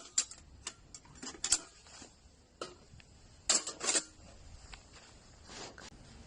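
Light metal clinks and clanks at irregular intervals, with a cluster of louder ones about three and a half to four seconds in, from a folding metal camping fire pit being handled.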